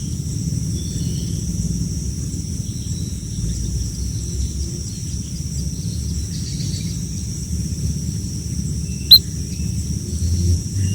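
Faint, short bird chirps scattered over a steady high-pitched insect drone and a low rumble, with one sharp, loud click about nine seconds in.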